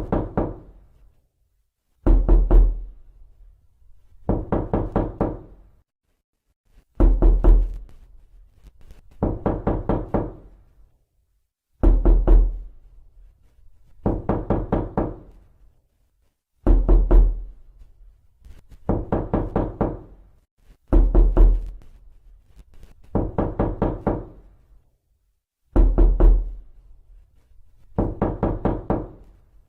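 Knocking on a door in quick bursts of four to six raps, each burst under a second long, repeating about every two seconds with silence between; some bursts open with a heavier, deeper thud.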